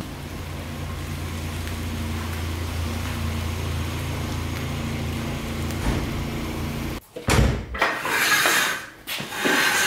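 Stock 1.6-litre Mazda Miata four-cylinder engine running steadily at low speed as the car rolls in, cutting off abruptly about seven seconds in. Then a knock and a few seconds of scuffing and rustling.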